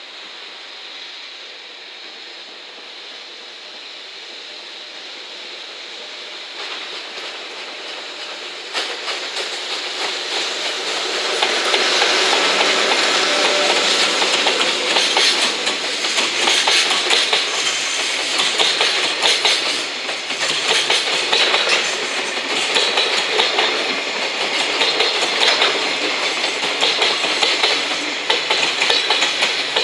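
EF66 electric locomotive hauling an unpowered HD300 shunter and eight empty Koki container flatcars past, growing louder over the first dozen seconds. It then gives way to a steady, rhythmic clickety-clack of wheels over rail joints as the empty flatcars roll by.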